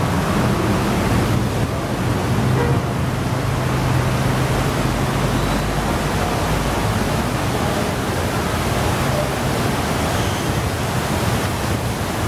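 Steady rushing noise of heavy rain and wind, with a vehicle's low engine hum passing in the first half.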